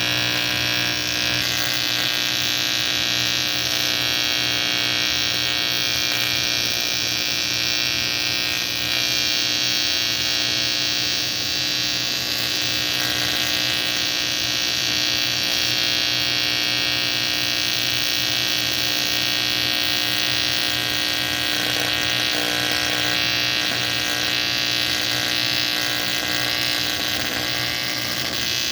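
AC TIG welding arc on a cast aluminum AFR cylinder head, giving a steady electric buzz with no break.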